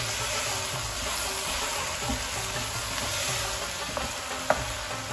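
Okra, tomatoes and spices sizzling in a hot pot while being stirred with a wooden spoon. The spoon knocks lightly against the pot about two seconds in, and more sharply near the end.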